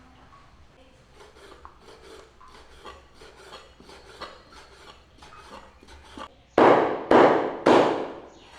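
Food being cut on a wooden chopping board with a kitchen knife in quick, light strokes, then three loud rasping strokes about half a second apart near the end.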